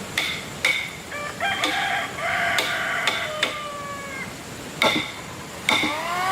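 A rooster crowing: one long call about a second in that falls away at its end, and a second call beginning near the end. Under it, sharp knocks of tool strikes on wood recur every second or so.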